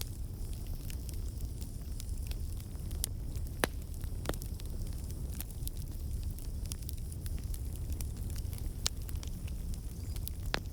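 Campfire burning with a steady low rumble and irregular crackles and pops of the burning wood, a few louder snaps among them.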